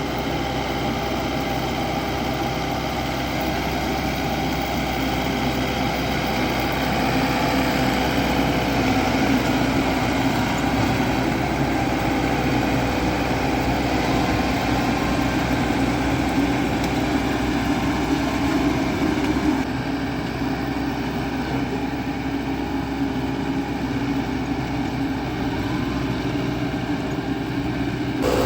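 Diesel engine of heavy farm machinery running steadily at working speed, with a level engine note and a low hum; it gets a little louder about eight seconds in, and the tone changes abruptly about twenty seconds in and again near the end.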